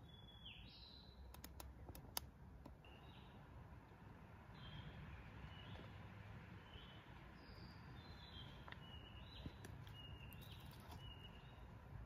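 Faint short chirping bird calls, brief sliding notes repeated every second or so, over quiet forest background. A few sharp clicks, the loudest about two seconds in, fit twigs being handled.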